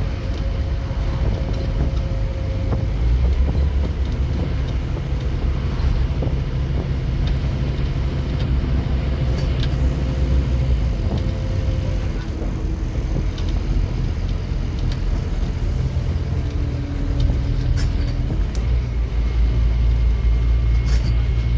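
Scania N230UD OmniCity double-decker bus's five-cylinder diesel engine heard from on board, with a deep steady drone as the bus pulls under load. The drone eases off for a few seconds past the middle and then pulls hard again near the end.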